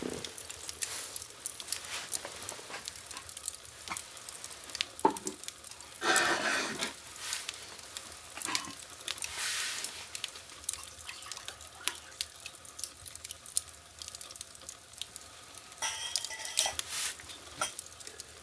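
Fire crackling in a fireplace: irregular pops and snaps over a soft hiss, with a louder hissing flare about six seconds in and another near the end.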